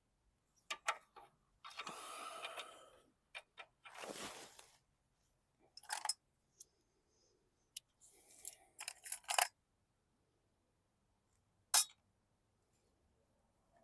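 Metal hand tools clinking, clattering and scraping in short, irregular bursts as wrenches are handled and tried on a mower's fuel fitting, with one sharp loud click near the end.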